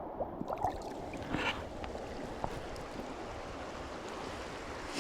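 A small creek running steadily over rocks, with a couple of brief louder water sounds in the first two seconds.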